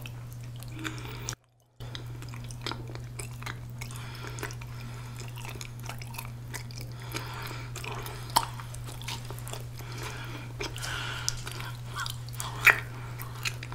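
Close-miked chewing of sticky, chewy ramie-leaf rice cake (mosi-tteok): irregular wet smacks and clicks of the mouth, with a fresh bite near the end. A steady low hum runs underneath, and the sound drops out briefly about a second and a half in.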